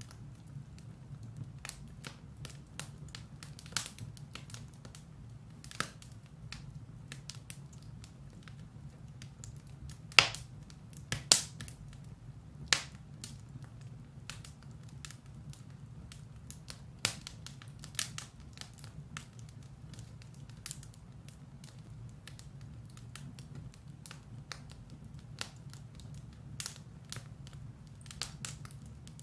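Firewood burning in a fireplace, crackling with irregular sharp pops and snaps over a low steady rumble of the fire; the loudest pops come about ten and eleven seconds in.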